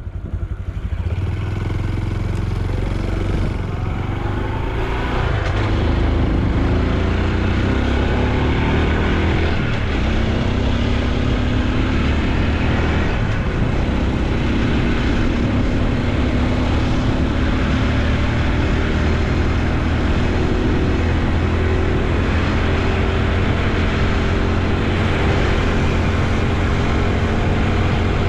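Honda Super Cub C125's single-cylinder four-stroke engine and exhaust while riding. It picks up speed with rising engine pitch over the first few seconds, then runs at a steady cruise with wind and road noise.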